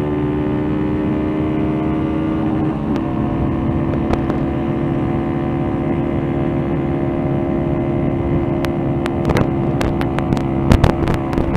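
Motorcycle engine running steadily at cruising speed, its pitch shifting slightly about three seconds in. Several sharp knocks come near the end.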